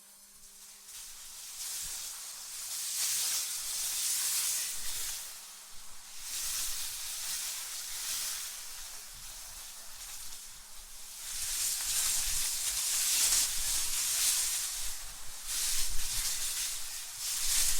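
AI-generated wind blowing in gusts: a hissing rush that swells and fades every few seconds, loudest near the middle and towards the end.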